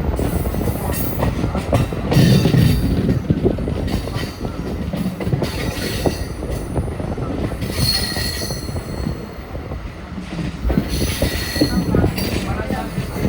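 Electric suburban (EMU) train running, its wheels knocking and clattering over rail joints and points, with a short wheel squeal about eight seconds in.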